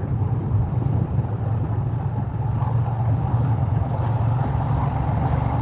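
Royal Enfield Himalayan's 411 cc single-cylinder engine running steadily under way, heard from the rider's helmet-mounted camera.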